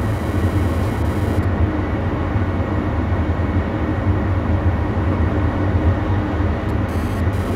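Passenger train running steadily along the track: a continuous low rumble of wheels and running gear on the rails.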